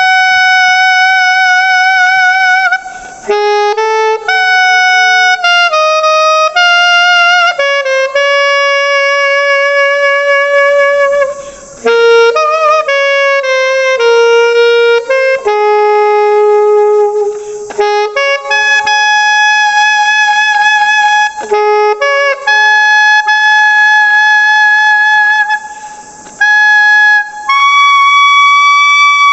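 Unaccompanied alto saxophone playing a melody: long held notes with vibrato alternating with quick runs of short notes, with brief breaks for breath. The tone is bright and hard-edged, from a non-classical mouthpiece chosen for a stronger attack.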